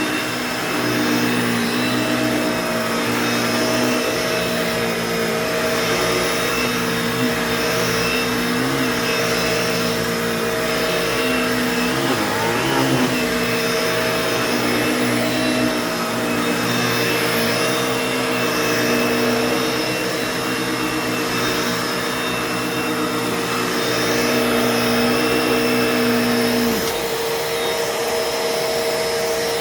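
Bissell Pet Hair Eraser Turbo Plus vacuum cleaner running steadily, its motor whining at a constant pitch. Near the end the lower hum cuts out suddenly while the motor keeps running.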